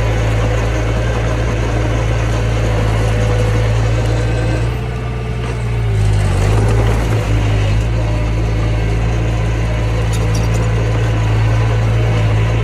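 Mini bulldozer's diesel engine running steadily. About five seconds in the revs sag briefly, then pick back up a second or so later and hold steady again.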